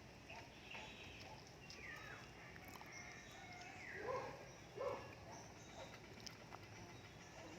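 Puppies whimpering: several thin, high, falling whines, then two louder, lower yelps about four and five seconds in.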